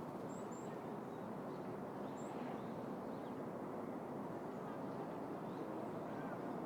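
City park ambience: a steady hum of distant urban traffic, with a few short, high bird chirps in the first few seconds.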